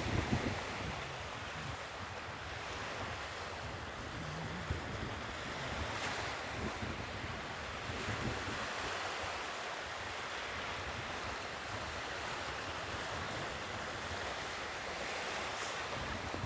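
Sea surf washing steadily onto the shore, an even hiss of breaking water without any distinct crashes.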